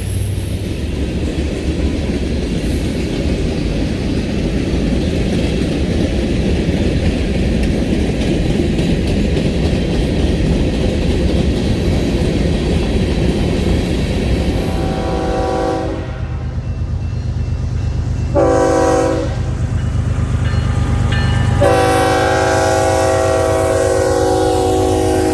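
A train rolling past with a steady rail rumble, then a locomotive air horn sounding a chord, in short blasts and then a long one near the end.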